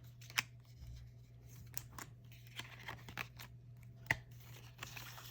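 Quiet handling of an album package being opened: scattered soft clicks and light rustles of card, paper and plastic, with one sharper click about half a second in, over a faint steady hum.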